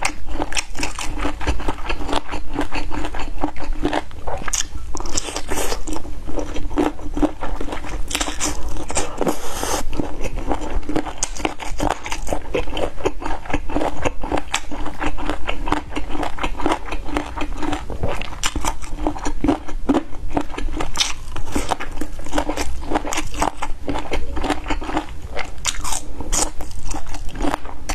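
Close-miked chewing and biting of crunchy food: a dense, irregular run of wet crunches and mouth clicks that goes on without a break.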